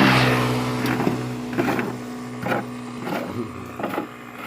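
Old truck's engine running, louder at the start and easing back to a steadier, lower note after about a second and a half, with several irregular knocks over it.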